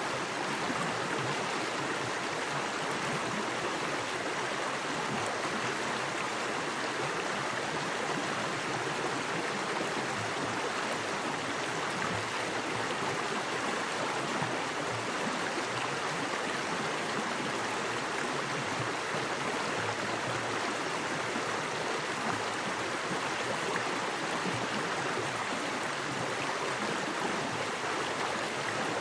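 Small woodland creek, fast water rushing and splashing over rocks in a steady, even rush.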